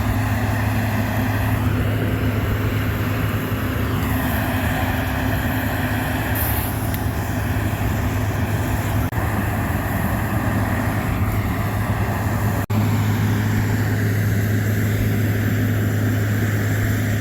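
Diesel locomotive of a cog railway running with a steady low engine hum, broken twice by brief drops.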